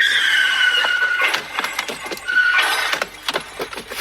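Car-crash sound effect: a tyre screech for about a second, then a collision with a rapid clatter of impacts, a short second screech a little after two seconds in, and scattered debris clatter.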